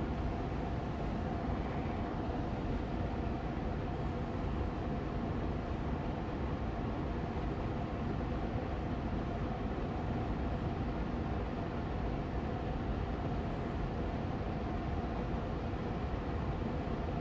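Austin Air Allergy Machine air purifier's fan running steadily on medium speed: an even whooshing hum with a faint steady tone in it.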